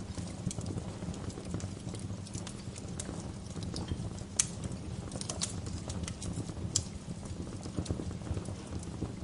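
Bonfire burning: logs crackling with scattered sharp pops over a steady low rumble of the flames. The loudest pop comes a little before halfway.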